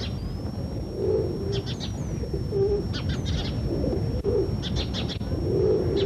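Birds calling: short low calls repeated about six times, with brief clusters of high chirps between them, over a steady low rumble.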